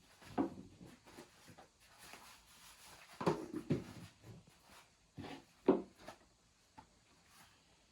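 Irregular soft knocks, taps and rustles of hands and utensils at work during baking preparation, loudest in two clusters a little past three seconds in and just before six seconds.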